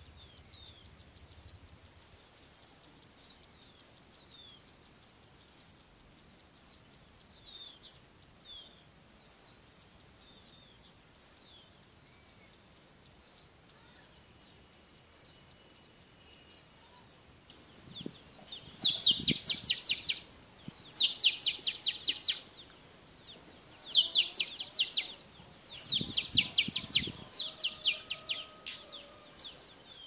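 Oriental magpie-robin calling: faint scattered chirps at first, then about two-thirds of the way in, four loud bursts of rapid repeated notes.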